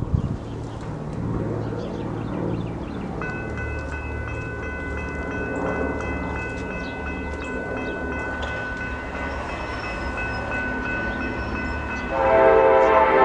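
Approaching Norfolk Southern diesel freight train: a steady low rumble, joined about three seconds in by a thin steady high ringing. About twelve seconds in, the locomotive's air horn starts sounding loudly.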